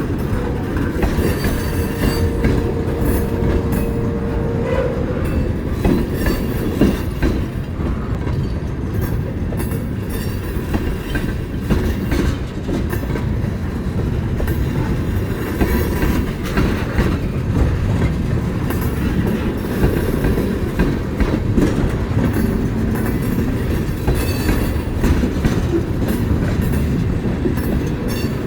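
Train cars rolling past at low speed, their wheels clicking and rumbling over the rail joints. A thin steady whine sounds for a few seconds near the start.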